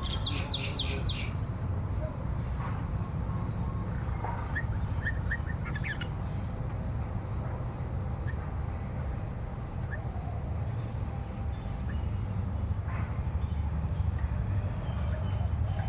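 Small birds chirping in short bursts, a quick run of high notes at the start and another about five seconds in, over a steady low rumble.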